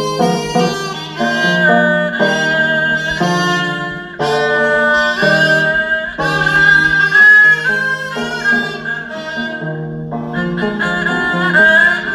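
Live instrumental ensemble music: a sustained melody over held low notes that change step by step. The music dips briefly about four seconds in and again near ten seconds in.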